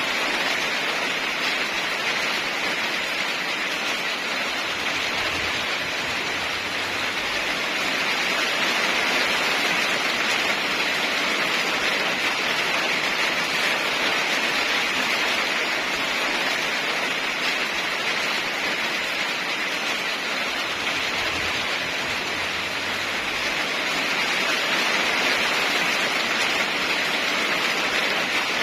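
Steady heavy rain, an even rushing hiss that eases and swells slightly in level, with no thunder or single drops standing out.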